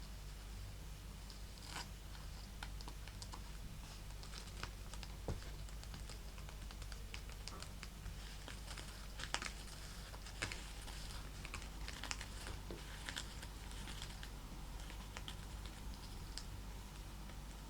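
Fingernails tapping and scratching on a snakeskin leather purse: a stream of quick, irregular light clicks and scratches.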